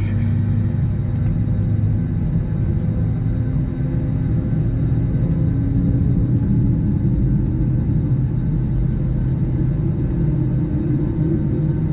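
Airbus A321 cabin noise from the wing-side window seat while the airliner taxis: a steady low rumble from the jet engines, with a hum that slowly rises in pitch.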